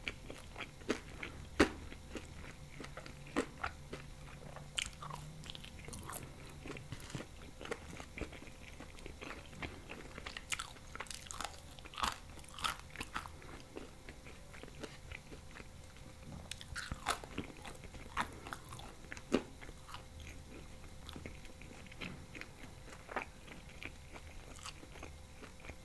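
Close-miked chewing and biting of thin-crust pizza: irregular crunches and mouth clicks, busiest in bursts around the middle.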